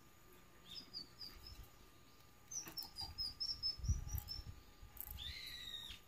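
Small birds chirping: two quick runs of short high notes, then a falling call near the end, over a low rumble of wind or handling on the microphone.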